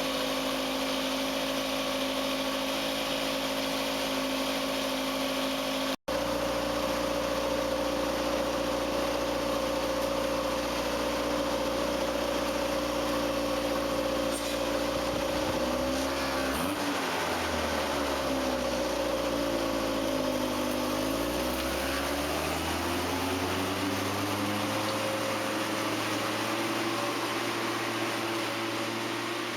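A homebuilt tractor's engine running steadily, with engine speed dipping and picking back up a couple of times about halfway through.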